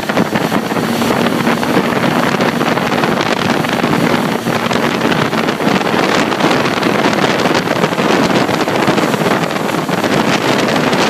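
Motorboat running steadily at towing speed, with wind buffeting the microphone and water rushing past.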